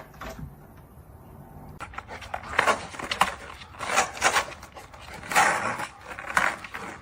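A dog making a series of short, noisy vocal sounds, about six over the last five seconds, starting about two seconds in.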